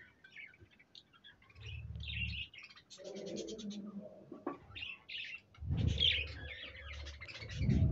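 A colony of budgerigars chirping and chattering, many short high calls overlapping. Low bumps and rumbles from handling close to the microphone come in about two seconds in and again near the end.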